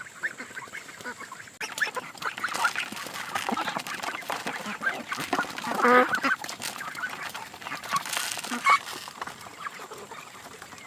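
A flock of farmyard waterfowl calling: many overlapping quacks and honks, growing louder after the first second and a half, with one loud call about six seconds in and another sharp one later.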